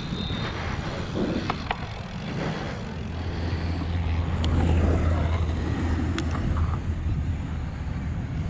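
Wind buffeting a helmet-mounted action camera's microphone and BMX tyres rolling on a dirt track, with a low rumble that swells in the middle and a few sharp clicks.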